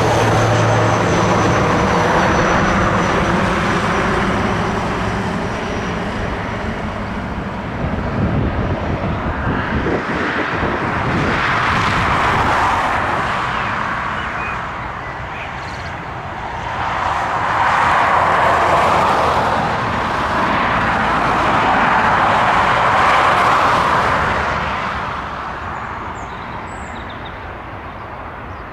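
Boeing 757 jet engines roaring as the airliner goes by. The noise swells and eases several times, then falls away near the end.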